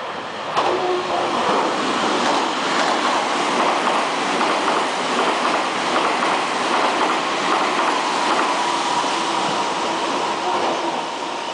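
A Meitetsu electric train running through the station: a loud steady rush of wheels on rail that starts abruptly about half a second in. A thin steady whine joins in during the second half.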